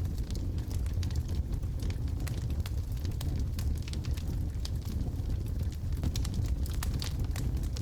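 Wood logs burning in a fireplace: a steady low rumble of the fire with frequent small, sharp crackles and pops scattered throughout.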